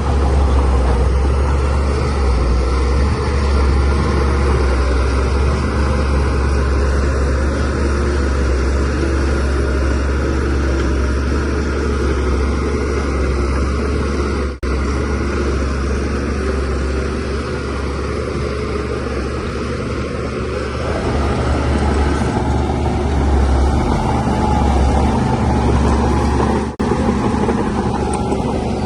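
DH17C3 bulldozer's diesel engine running under load with a steady deep rumble, swelling and easing a little as it works, and dropping out for an instant twice.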